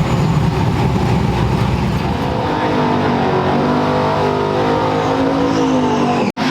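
Pickup trucks drag racing: a loud engine rumble at the line, then from about two seconds in, engine notes gliding up and down in pitch as the trucks accelerate down the strip. The sound cuts off abruptly just before the end.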